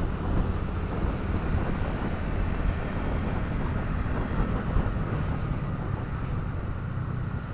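Motorcycle running on the road, with wind buffeting the rider's microphone in a steady low rumble.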